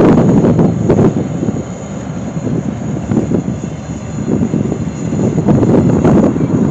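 Diesel-electric freight locomotive running under load as the train pulls out, with a steady engine rumble and rolling rail noise. Loud at the start, easing a little mid-way, then swelling again near the end.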